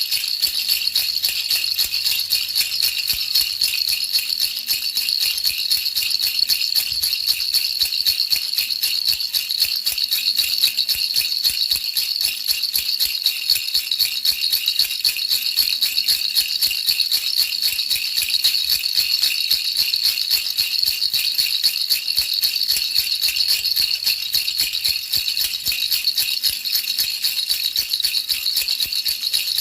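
Baby rattle shaken continuously: a fast, unbroken, high-pitched rattling of small beads, used as a soothing noise for babies.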